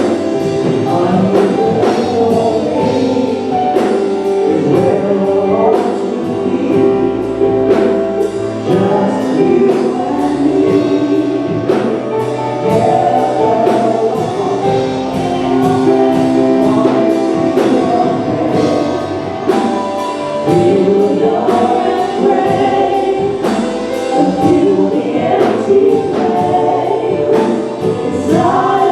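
Church worship team and choir singing a gospel worship song with live band accompaniment and a steady drum beat.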